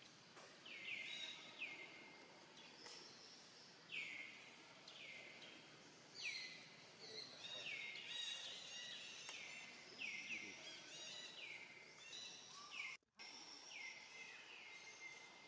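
A bird calling over and over, each call a short whistle that falls in pitch, roughly one to two a second, over quiet outdoor background. The sound cuts out completely for a moment near the end.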